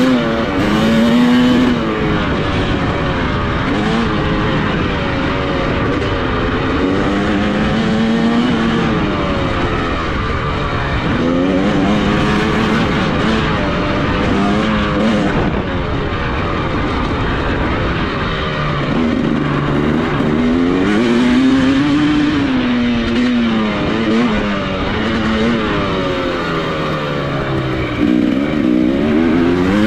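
Dirt bike engine being ridden hard, its pitch rising and falling again and again as the throttle is opened and closed, with a steady rush of wind noise underneath.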